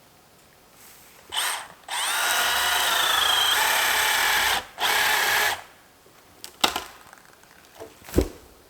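A cordless power tool's electric motor runs in three bursts, one short and two long, as it cuts into a dead standing birch to test the wood, which turns out to be rotten. Two sharp knocks of wood follow near the end.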